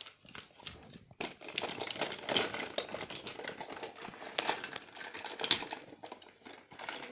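Rapid, irregular clicking and clattering of small hard plastic objects, as makeup cases and tools are handled and knocked together.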